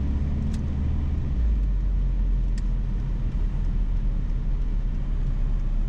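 A car's engine and road noise heard from inside the cabin while driving, a steady low rumble whose engine note drops about a second and a half in. Two faint ticks are heard early on.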